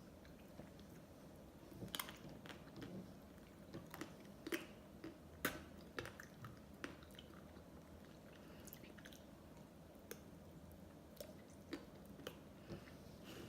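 Faint close-miked mouth sounds of someone eating ice cream: soft wet chewing with irregular small clicks and smacks, a few sharper ones around two, four and a half and five and a half seconds in.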